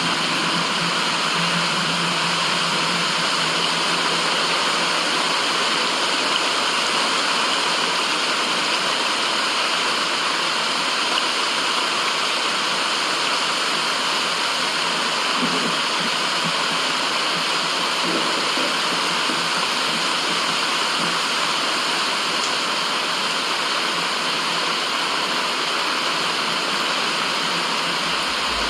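Steady white noise of the rushing-water kind, even and unbroken, with most of its sound in the upper-middle range and little bass.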